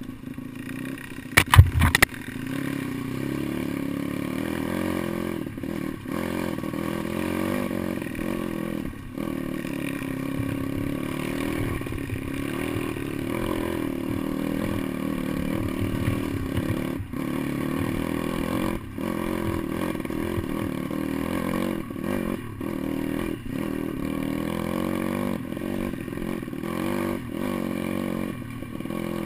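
Pit bike engine running on an enduro trail ride, its note steady with brief dips in throttle. A few sharp, loud knocks about two seconds in.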